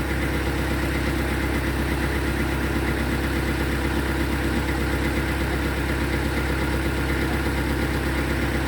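Sawmill machinery running steadily, its engine giving an even, unchanging hum.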